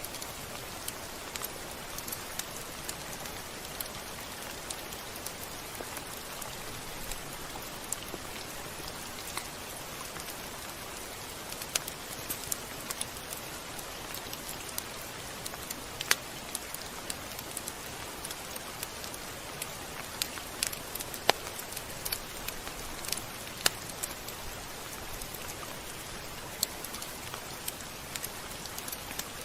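Steady rain falling, a constant hiss with many scattered sharp drops and ticks.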